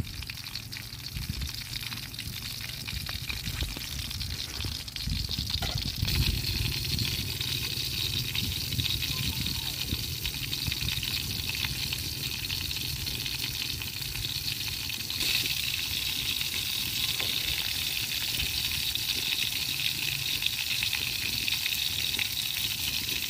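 Fish cakes sizzling and crackling as they fry in oil in a steel wok over a wood fire, a steady hiss that grows louder about six seconds in.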